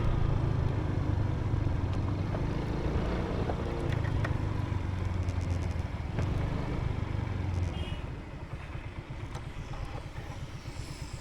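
Motorbike engine running with rumbling wind noise while riding; about eight seconds in it drops off to a quieter, evenly pulsing run as the bike slows.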